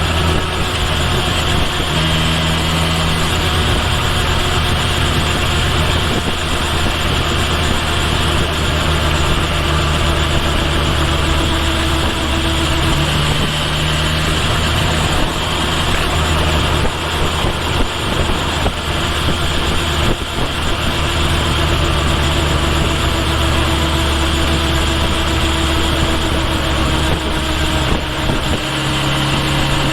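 Kawasaki Ninja H2 SX motorcycle's supercharged inline-four running under way with steady wind and road noise, heard from a microphone at the base of the rear turn signal. The engine note steps up or down a few times along the way.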